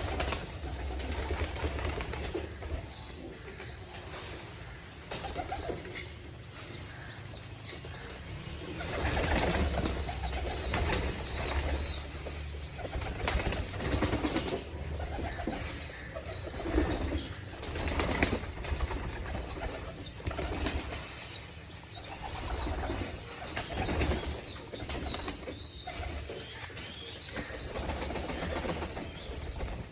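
Flock of domestic pigeons cooing, with occasional wing flapping and scattered short high chirps over a low steady rumble.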